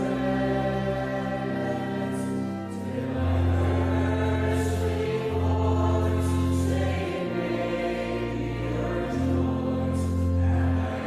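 Choral music: voices singing long held chords over a deep bass, the chord changing every second or two.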